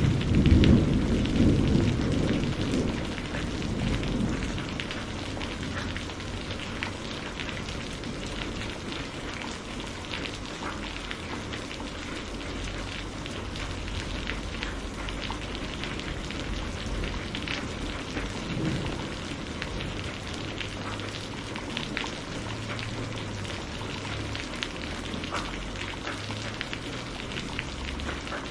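Steady rain falling on a surface with a patter of drops, and a rumble of thunder at the start that fades out over the first few seconds.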